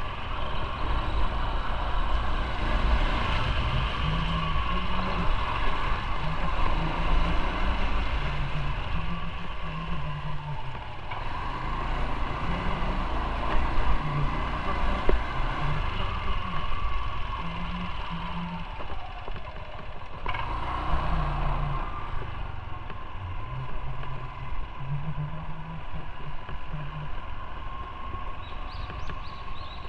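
Motorcycle engine running while riding, with wind rumbling on the microphone. The engine note falls and then picks up again about two-thirds of the way in.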